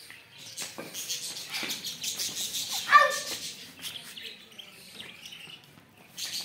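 Small birds chirping, with a short high call about three seconds in.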